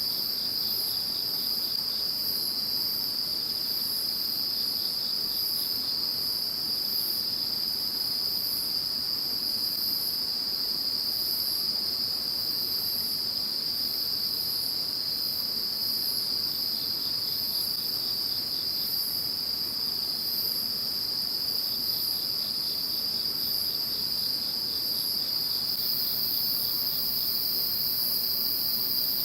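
Chorus of several calling insects. One sings a continuous trill while another gives short, very high chirps over and over. Near the end a further high, steady trill joins in.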